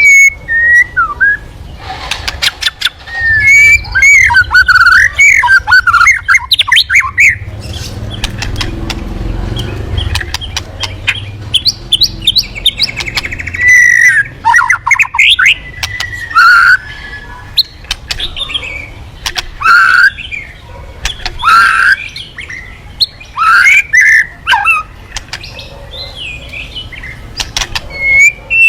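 A murai, a Copsychus songbird, singing loud varied phrases: whistles that slide up and down, mixed with rapid clicking chatter. The song stops for a few seconds in the middle, then resumes in short bursts.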